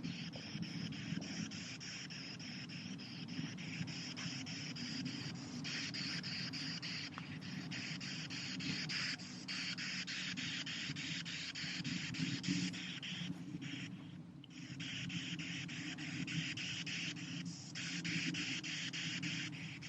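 Radio static hissing steadily from a ghost-hunting spirit box, broken by short drop-outs several times.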